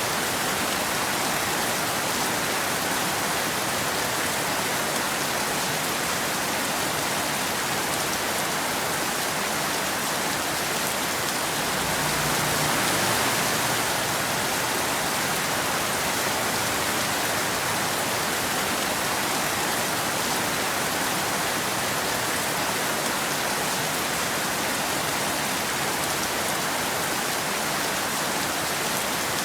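Steady rain falling on a wet road and forest, an even hiss with a slight swell about halfway through.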